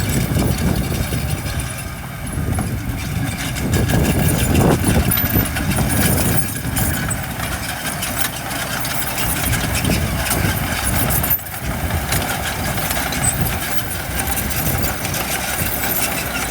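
Diesel engines of heavy earthmoving machinery, dump trucks and a bulldozer, running steadily at a construction site. The sound swells for a couple of seconds about four seconds in.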